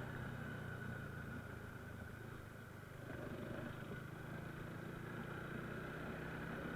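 Motorcycle engine running steadily, its note easing off slightly about two and a half seconds in, then picking up again.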